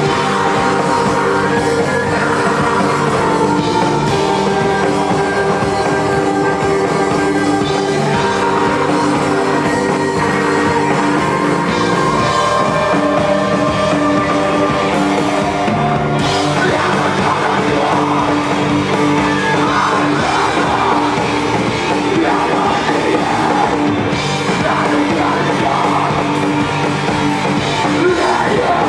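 Live rock band playing loudly and continuously, with a voice singing over the instruments.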